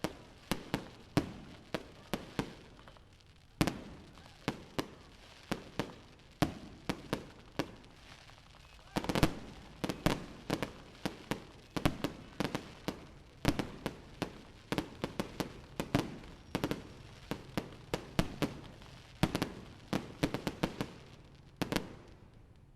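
Fireworks display: aerial shells bursting in an irregular run of sharp bangs, sometimes several a second, with crackle between them. The bangs stop about a second before the end.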